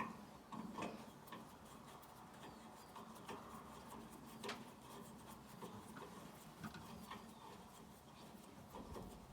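Faint, scattered clicks and light taps of hand work on a sawmill blade-guide assembly as a new guide bearing is fitted.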